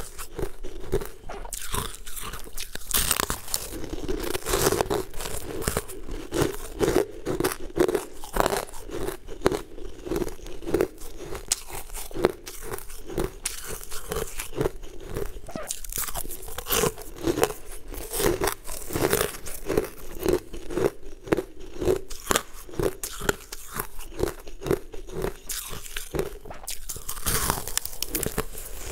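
Close-up crunching and chewing of frost-coated frozen chunks, bitten and ground between the teeth in a steady rhythm of about two chews a second.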